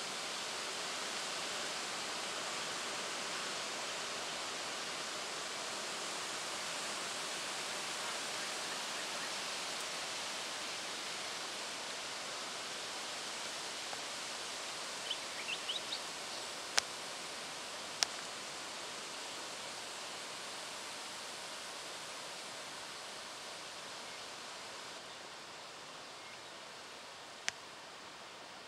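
Steady rushing outdoor background noise that eases slightly near the end. About halfway through there is a brief run of short, high, rising chirps, followed by a few single sharp clicks.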